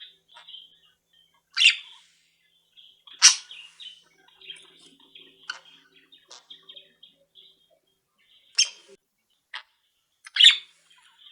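Caged pet birds chirping: soft, nearly continuous twittering broken by four loud, sharp calls, two in the first few seconds and two more near the end.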